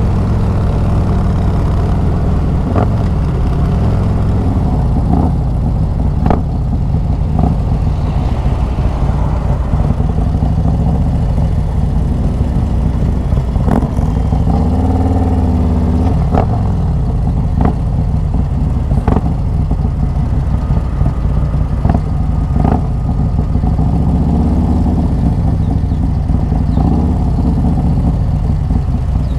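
Harley-Davidson Road Glide's 128-cubic-inch Screamin' Eagle V-twin running under way through a Khrome Werks 2-into-1 exhaust, a steady low rumble. The engine pitch dips and rises again about halfway through, and sharp knocks recur throughout.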